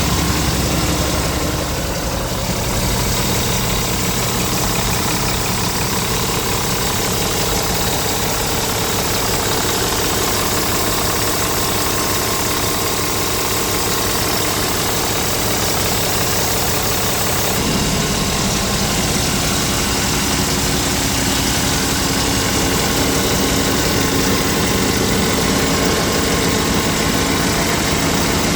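Scania R tractor unit's diesel engine idling steadily, its tone shifting slightly about two-thirds of the way through.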